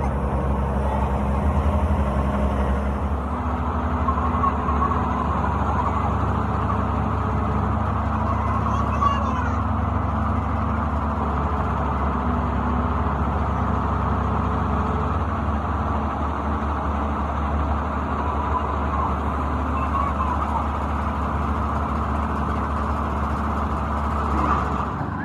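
An engine running steadily with an even low drone, with faint voices in the background.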